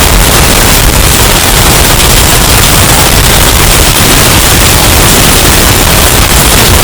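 Hurricane wind and rain sound effect, bass-boosted and overdriven into heavy distortion: a steady, clipped wall of noise at full volume with a heavy low end.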